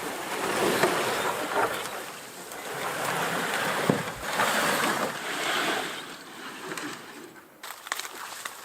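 Footsteps sloshing and splashing through cold shallow water while wading, in uneven surges that quieten near the end.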